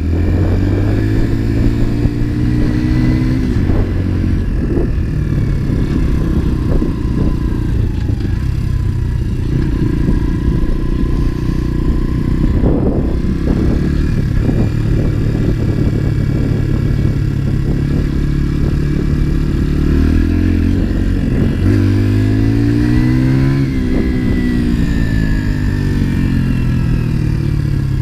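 Motorcycle engine under way, its note climbing as it accelerates and dropping back at gear changes, with the biggest rise and fall about three-quarters of the way through. A dense low rush of wind and road noise runs under it.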